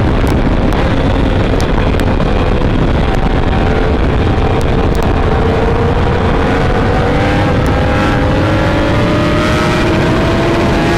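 Kawasaki Ninja H2's supercharged inline-four with an Akrapovic exhaust, heard from on board while riding hard: the engine note climbs slowly and steadily over the second half as the bike pulls through a gear, with heavy wind rush underneath.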